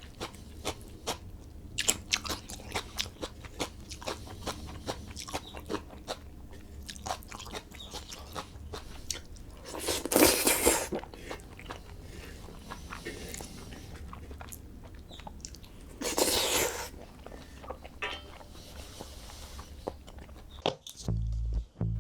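A person eating close to the microphone: steady chewing and crunching with many small mouth clicks. There are two louder, longer bursts, about ten and sixteen seconds in. A faint low hum runs underneath.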